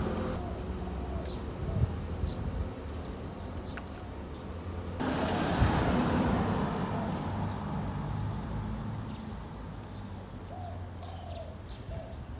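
Proton Saga's engine idling steadily under the open bonnet, with a rush of hissing air about five seconds in that fades over a couple of seconds.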